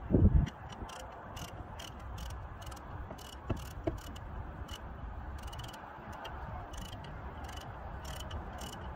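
Mechanic's hand-tool work on the engine: a knock just after the start, then faint ratchet-like clicking repeating a few times a second over a low steady hum.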